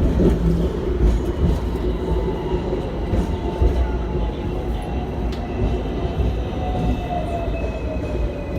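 Hong Kong double-decker tram running, heard on board: a steady rumble of wheels on rail with a motor whine that falls slowly in pitch as the tram slows.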